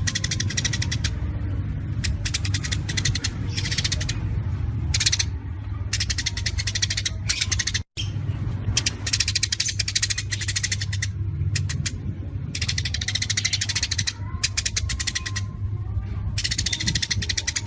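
Songbird singing a masteran of rapid-fire 'tembakan' phrases: bursts of very fast, high trilled notes, each lasting about half a second to a second and a half, repeated again and again over a steady low hum. The sound cuts out for a moment about eight seconds in.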